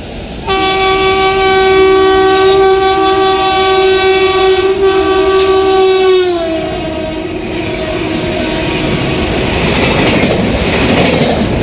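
Indian Railways locomotive horn held for about six seconds, two notes together, dropping in pitch just before it stops. It is followed by the rushing rumble and wheel clatter of the train passing through.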